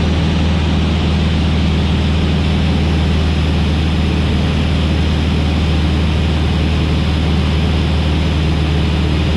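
Van's RV-8 light aircraft's piston engine and propeller running steadily in level flight, a constant low drone heard from inside the cockpit.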